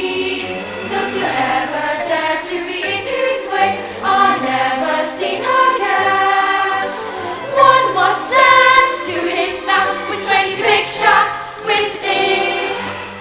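A choir singing a song from a stage musical, with instrumental accompaniment.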